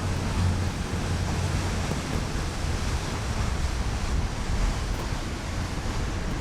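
Steady low drone of a tour boat's engine under the rush of water along the hull, with wind blowing across the microphone.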